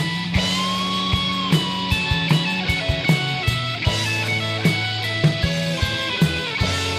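Rock band playing an instrumental passage: electric guitar lead lines with bends over bass and a steady drum beat.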